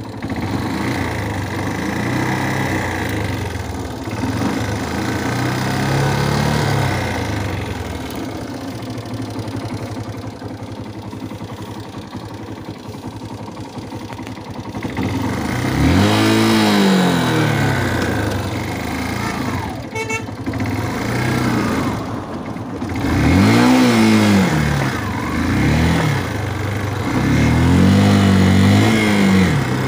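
Motorcycle engine running, with its revs surging up and falling back several times in the second half. The rider is working the throttle by pulling the bare accelerator cable by hand because the throttle cable has broken.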